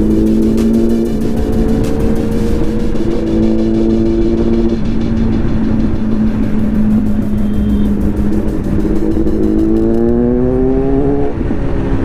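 Motorcycle engine running at steady revs under way, then revving up near the end with a brief break like a gear change, over wind rush.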